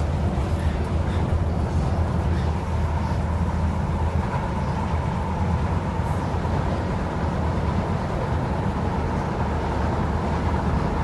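Tyne and Wear Metrocar running between stations, heard from inside the car: a steady low rumble of wheels on the rails, with a faint steady tone held throughout.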